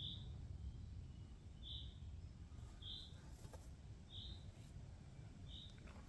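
A bird's short, high-pitched call repeated at a steady pace, about five times, roughly once every second and a half, over a low background rumble.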